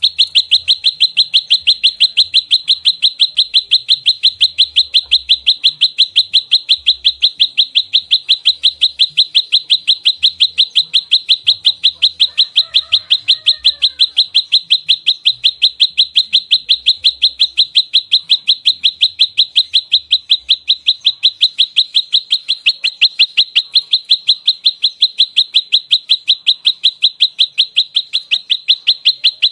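Prenjak lumut, a small prinia, giving its fighting call: an unbroken, fast run of sharp, high chip notes, several a second, without a pause. This is the tightly repeated 'nembak rapat' call used as a lure and training recording.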